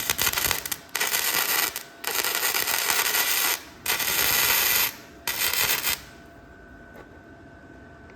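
Welding arc crackling in five bursts of about a second each with short pauses between, as a bead is laid on steel to attach a trailer jack.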